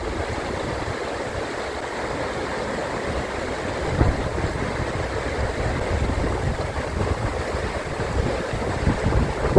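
River rapids rushing, a steady dense wash of water, with irregular low buffeting of wind on the microphone.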